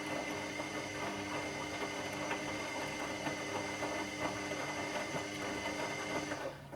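Washing machine running: a steady motor whine with light rattling and clicks from the drum. It cuts off suddenly near the end, leaving only a faint low hum.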